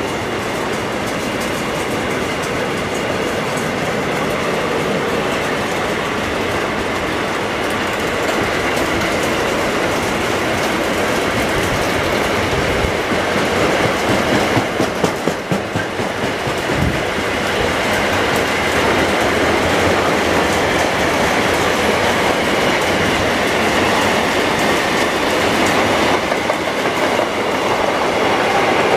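Freight train of double-deck car-carrier wagons rolling past close by: steady wheel and rail noise with the clickety-clack of wheels over the track. About halfway through, the sound pulses unevenly for a couple of seconds.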